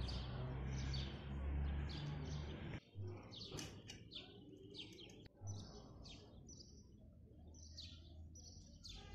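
Small birds chirping in repeated short calls, with a low steady rumble under them for the first few seconds that stops abruptly.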